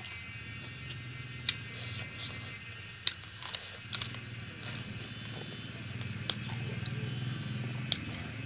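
Close-up eating sounds: a few sharp crunches and mouth clicks from chewing dry-fried frog, spaced irregularly over a steady low hum.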